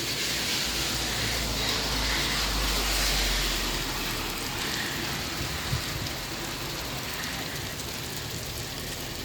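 Heavy rain falling, a steady hiss of rain on outdoor surfaces, with a low rumble that swells and fades over the first few seconds.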